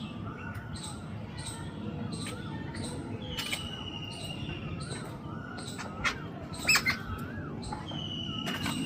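Birds calling: rapid repeated short high chirps, wavering whistled notes and two long, slightly falling whistles. Three sharp knocks, the loudest sounds here, come about six to seven seconds in.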